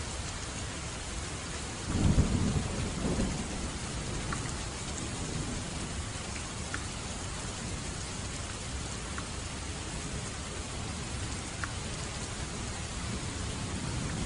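Steady rain falling, with a clap of thunder about two seconds in that rumbles and fades over a second or two, and a few scattered drips.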